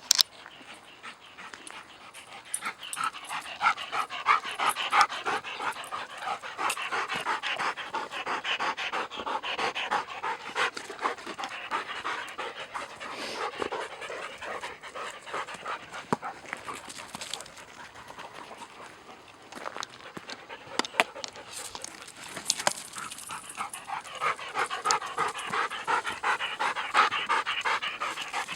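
A dog panting fast and hard close by, in two long spells with a lull between, with a few sharp clicks.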